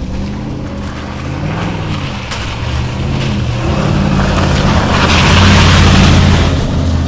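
Supercharged 5.4-litre V8 of a 2007 Mercedes G55 AMG running as the truck drives off, its pitch rising and falling through the gears. The engine and rushing noise build to the loudest point about five to six seconds in, then ease off.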